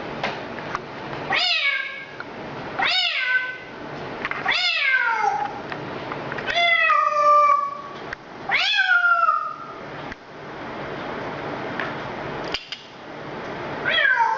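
Repeated meows: five drawn-out calls, each starting high and falling in pitch, one every second and a half or so, then a pause and one more meow near the end.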